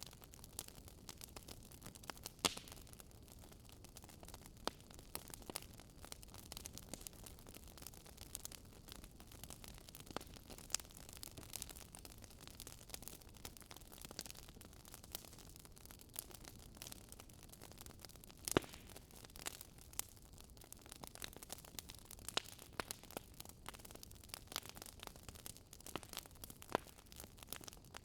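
Wood fire burning: irregular crackles and snaps over a soft steady hiss, with one sharper pop a little past halfway.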